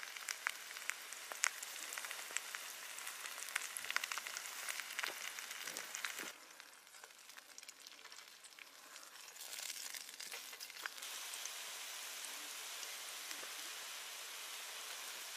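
Batter-coated napa cabbage leaves frying in oil in a pan, sizzling with many small crackling pops. About six seconds in the sizzle drops away suddenly, then it returns as a steadier hiss.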